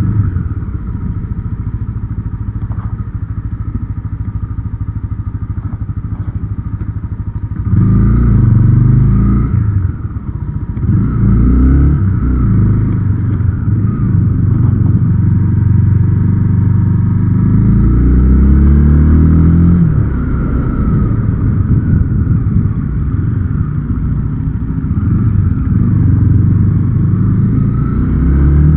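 Motorcycle engine running steadily at low revs, then louder from about eight seconds in as the bike accelerates, its pitch rising and dropping several times through the gears. A low wind rumble on the helmet-mounted camera's microphone runs underneath.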